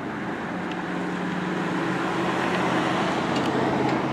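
A vehicle engine running and growing gradually louder, as from an approaching car.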